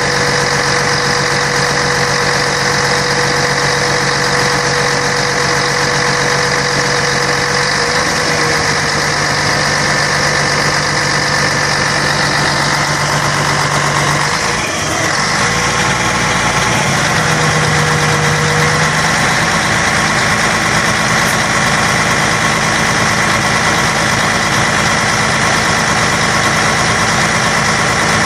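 Scania K113 bus's 11-litre straight-six diesel engine running steadily, with a brief change in tone about halfway through.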